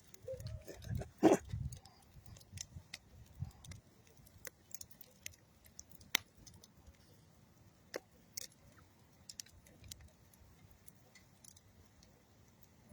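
Campfire of old railroad wood and dead tree wood crackling, with scattered sharp snaps and pops; the loudest pop comes just over a second in, amid some low rumbling in the first second and a half.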